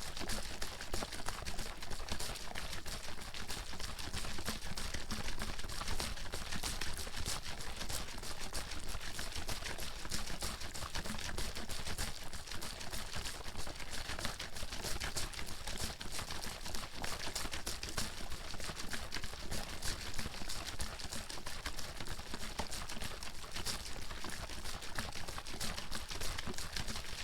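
Water sloshing and splashing inside a bottle shaken rapidly and continuously, in a dense stream of quick liquid slaps.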